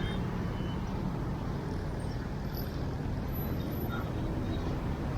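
Steady rumble of city road traffic, with no distinct event standing out.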